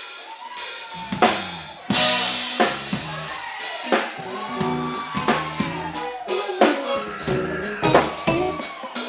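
Live band playing, with the drum kit and bass coming in about a second in: steady drum hits over a bass line, with melodic lines above.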